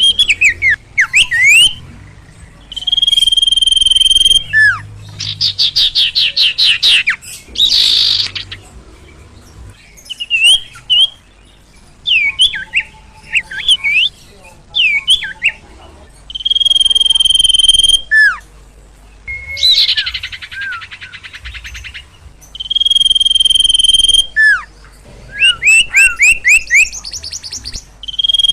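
A sirtu (sirpu) songbird singing energetically. It gives long, steady, high whistles, about four of them, each held for a second or more. Between them come fast trills and quick down-slurred chirps.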